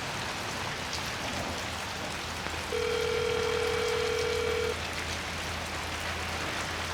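Steady rain with a phone ringback tone from the handset: one steady tone lasting about two seconds, starting a little under three seconds in, while an outgoing call waits to be answered.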